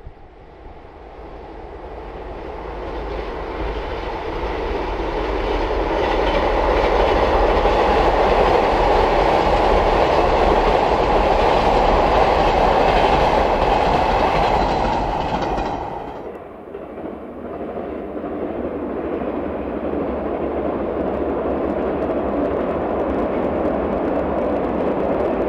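JR 381 series electric limited express train crossing a river bridge: its running noise and wheel clatter swell as it approaches and hold loud for several seconds. About two-thirds of the way through the sound cuts to a more distant, steadier rumble of the train still crossing the long bridge.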